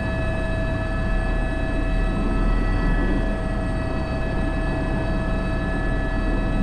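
Airbus H125 helicopter in flight, its turbine and rotor running steadily: a constant whine of several high tones over a low rumble, heard from inside the cockpit.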